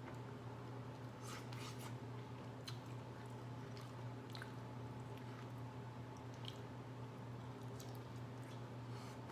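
Close-up eating of boiled shellfish: scattered small cracks and clicks of shells being broken and peeled, with chewing and squishing, over a steady low hum.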